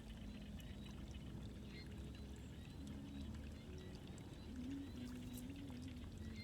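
Water running and pouring in a flowing waterway, a steady rushing sound, with a low hum underneath that steps up and down in pitch a few times.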